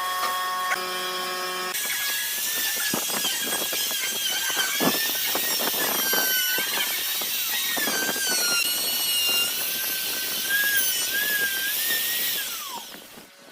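A high-speed electric power tool running with a high whine that rises and falls in pitch as it works the wood, with a scraping grind. Near the end it is switched off and spins down, the whine falling away.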